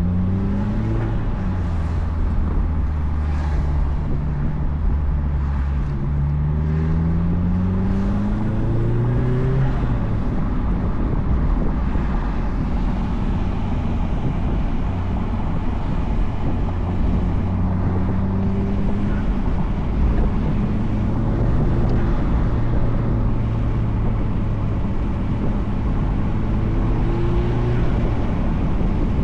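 2004 Mazdaspeed Miata's turbocharged 1.8-litre four-cylinder running through a Flyin' Miata cat-back exhaust while driving. It climbs in pitch twice in the first ten seconds, then mostly holds a steady cruise with a few gentle rises, over steady road and wind noise from the open top.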